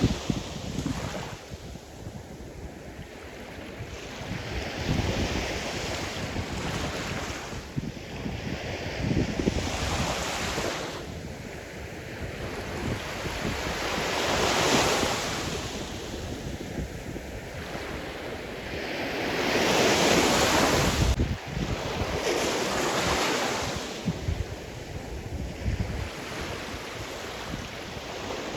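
Sea surf: waves breaking and washing in one after another, each a swell of rushing water every few seconds. The biggest comes about two-thirds of the way through.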